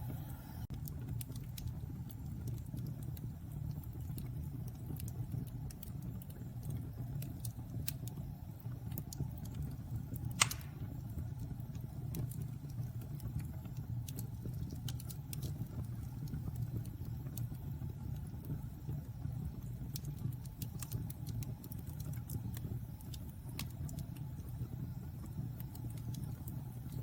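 Fire burning in a fireplace: a steady low rumble of flames with scattered sharp crackles and one louder pop about ten seconds in.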